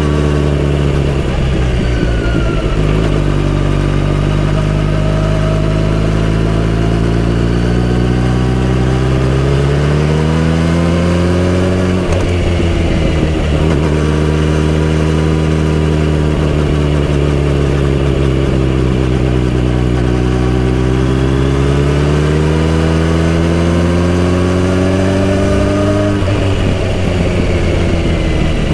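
Kawasaki Z900RS inline-four motorcycle engine under way. Its revs climb slowly for several seconds, then drop sharply; this happens twice, with a slow fall and rise in between.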